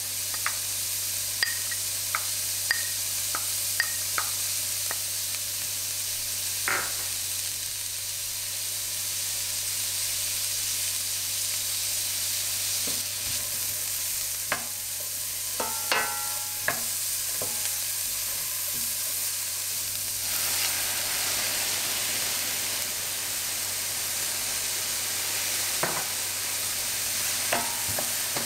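Diced vegetables sizzling in a stainless steel skillet while a wooden spatula stirs them, with scattered clicks and scrapes of the spatula against the pan. The sizzle thickens about two-thirds of the way through.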